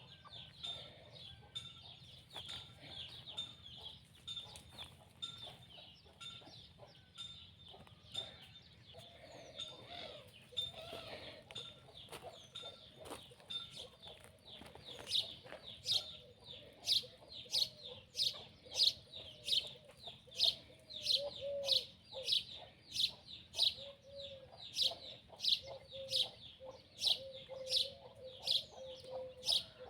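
Farm chickens clucking among other birds. From about halfway, a bird repeats a sharp high chirp about twice a second; this chirp is the loudest sound.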